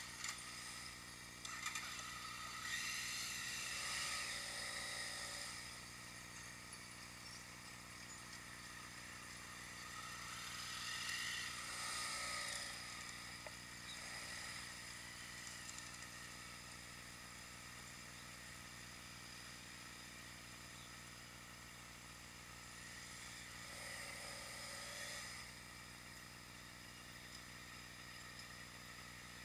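Road traffic: vehicles passing three times, each swelling up and fading away over a low steady hum.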